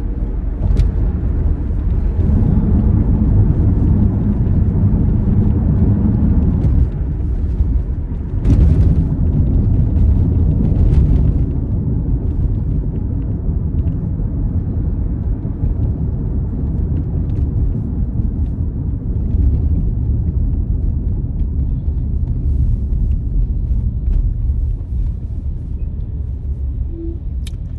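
Toyota car driving, a steady low rumble of engine and road noise.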